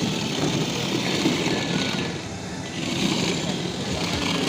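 Steady rumble and hiss of a vehicle in motion, dipping briefly about two seconds in.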